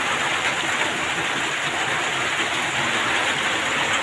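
Heavy rain pouring down steadily, an even dense hiss without a break.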